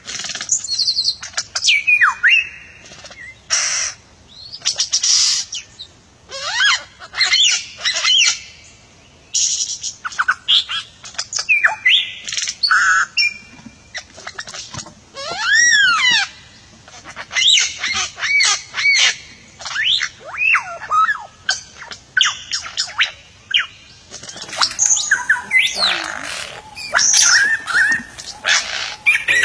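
A bird calling in a varied run of short bouts: clear whistles that glide up and down, chirps and harsh squawks, with brief pauses between bouts. The harsh squawks come thicker and louder near the end.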